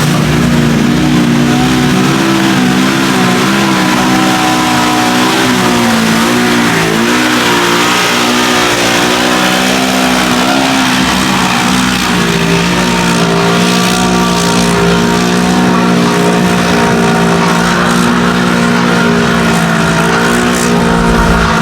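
Off-road vehicle engine running hard at high revs, its pitch wavering up and down without letting off.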